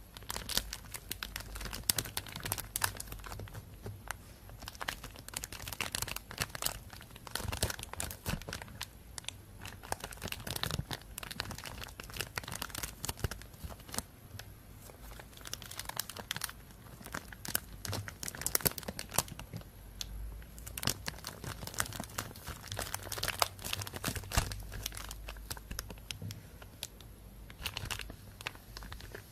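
Thin plastic bag crinkling and rustling as it is handled, a dense run of irregular crackles.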